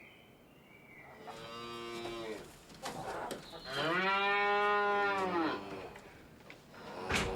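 A domestic cow mooing twice, two long calls, the second louder than the first.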